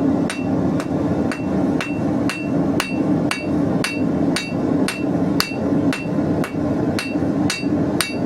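Blacksmith's hand hammer forging hot 16mm square steel bar, striking in a steady rhythm of about two to three blows a second, each blow ringing briefly. A steady low hum runs underneath.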